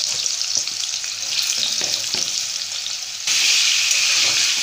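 Potato slices sizzling in hot oil in an aluminium kadhai, a steady hiss that turns suddenly louder about three seconds in. Near the end a spatula stirs the slices.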